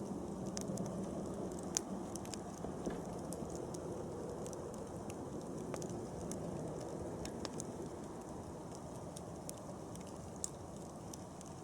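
Wood fire burning: a steady low rush from the flames, with irregular sharp crackles and pops from the burning wood. Two pops stand out louder, about two seconds in and near the end.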